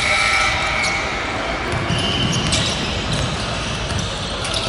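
Basketball being dribbled and bounced on a gym court during a game.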